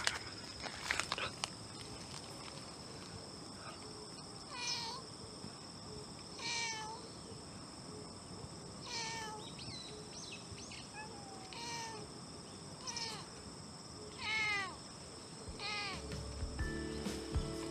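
A stray cat meowing repeatedly, about seven short calls one to two seconds apart, each dropping in pitch at its end. A steady high insect trilling runs behind it, and music comes in near the end.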